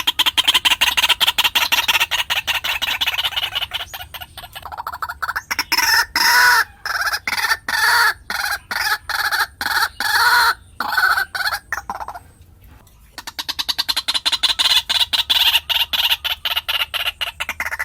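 White-breasted waterhen calling: long runs of rapidly repeated notes, fast and higher at first, slower and lower croaking strokes in the middle, then a brief pause about two-thirds of the way through before the fast run starts again.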